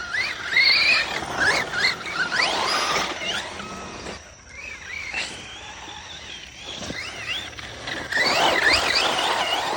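Tekno RC monster truck's electric motor whining, rising and falling in pitch as the throttle is worked, over the tyres churning. It comes in two loud spells, one at the start and one near the end, with a quieter stretch between.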